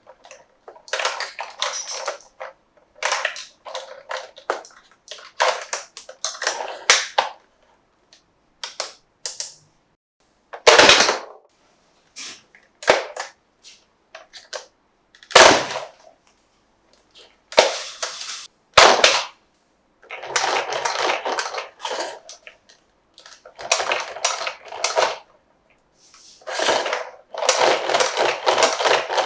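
Plastic toy pieces and packaging being handled: irregular bursts of crinkling and crackling with sharp clicks, a few harder plastic knocks in the middle, and denser crinkling near the end.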